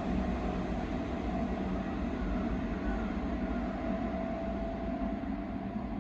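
Chiba New Town Railway 9100-series electric train running after departing from a station: a steady rumble of wheels on rail with a steady mid-pitched whine from the drive on top.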